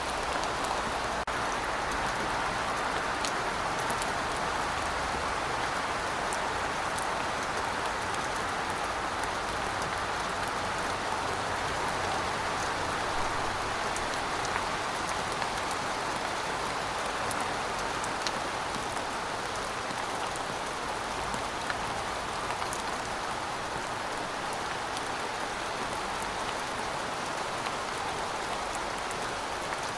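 Heavy rain falling steadily, a dense even hiss with many small drop ticks on top.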